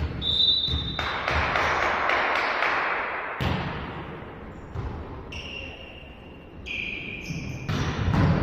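Volleyball rally sounds in a sports hall: several sharp hits of the ball, with short high squeaks off the court around the middle and near the end.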